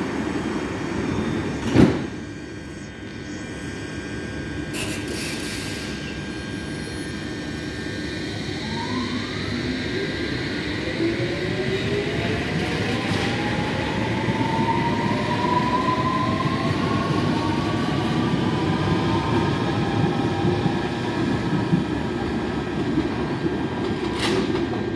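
Electric train pulling out of the station: a sharp knock about two seconds in, then the traction motors' whine rising steadily in pitch over the rumble of the wheels as it accelerates.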